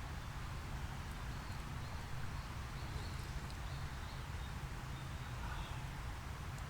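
Steady forest background noise with faint, scattered bird chirps.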